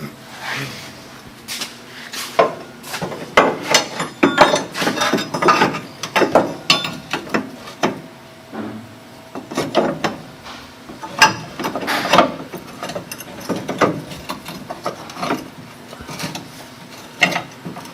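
Irregular clanks, knocks and rattling clicks of metal suspension parts and hand tools being handled and fitted, coming in clusters with short lulls between.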